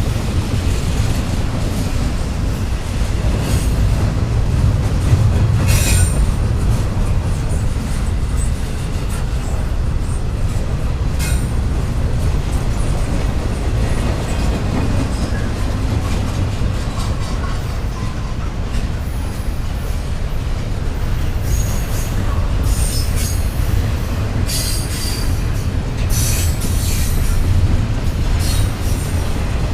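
Freight train rolling past, its cars giving a steady low rumble on the rails with short high wheel squeals that come and go, more of them near the end.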